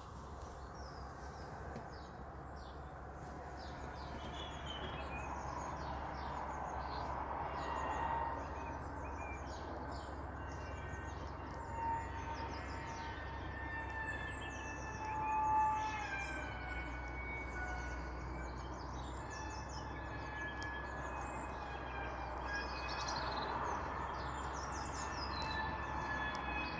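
A steady whirring drone from the sky, like a wood planer but slightly different, swelling a little over time; its source is unidentified. Birds chirp throughout.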